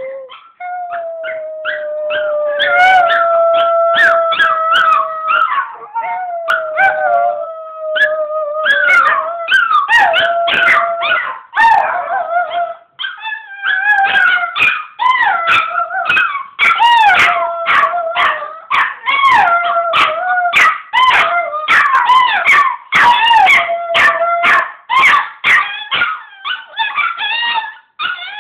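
A chihuahua and a pomeranian howling: long drawn-out howls at first, breaking up after several seconds into wavering, overlapping howls mixed with short yips and barks.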